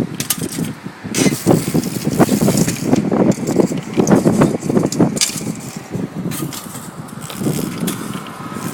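Strong gusty wind buffeting the microphone, rising and falling in quick gusts with crackling, easing off near the end.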